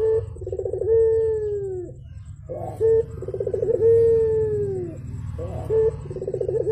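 Puter dove (Barbary dove) cooing in repeated phrases about every three seconds. Each phrase is a short note, a fast rolling rattle, then a long drawn-out coo that falls slowly in pitch. A steady low hum runs underneath.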